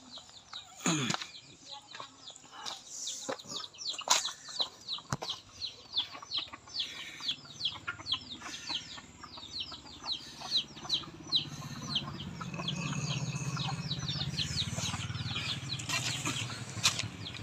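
A bird calling in a long run of short, high, falling chirps, about three a second. Scattered knocks are mixed in, and a low steady hum joins for several seconds past the middle.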